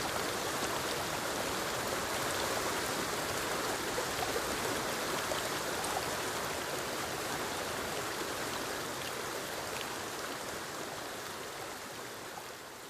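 Forest waterfall and stream: steady rushing, splashing water that fades out gradually over the last few seconds.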